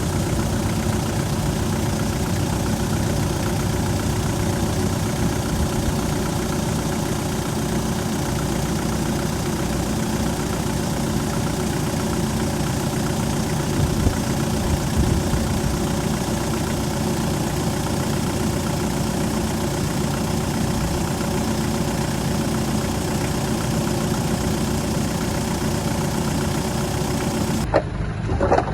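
Heavy diesel engine of an earth-moving machine running steadily at constant speed. About a second before the end the sound changes abruptly, and a few sharp knocks are heard.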